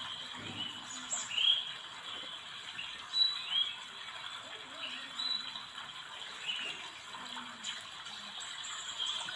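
Short high bird chirps every second or so over a faint steady hiss, with a faint distant voice low in the background.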